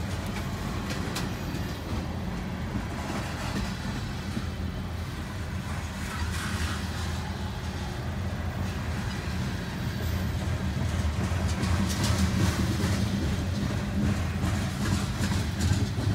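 Freight train of autorack and covered hopper cars rolling past: a steady wheel-on-rail rumble with occasional clicks, heard from inside a car. It grows louder about ten seconds in.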